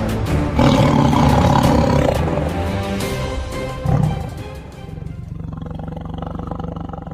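A tiger roaring over background music. After about five seconds the roar is gone and only a quieter music track with a steady pulse remains.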